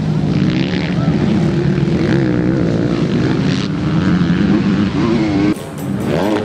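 MX2 motocross bikes racing, their engines revving up and down as riders throttle and shift. About five and a half seconds in the sound drops out briefly, then an engine revs up again.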